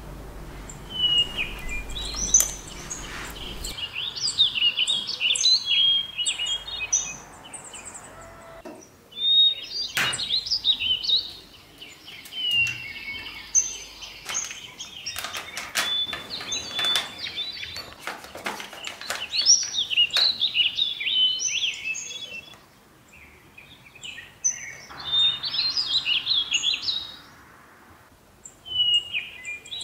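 Songbirds chirping and trilling in quick repeated phrases with short pauses between them, with several sharp taps around the middle.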